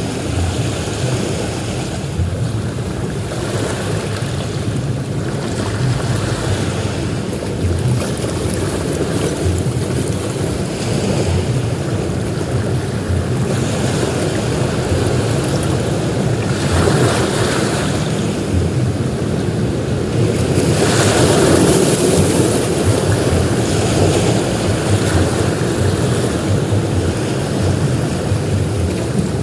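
Ocean surf breaking on a beach: a continuous wash of waves that swells into louder breaks about two-thirds of the way through, with wind rumbling on the microphone.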